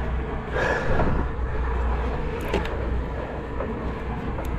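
Sportfishing boat's engine running with a steady low drone under wind and water noise, with a brief swish about half a second in.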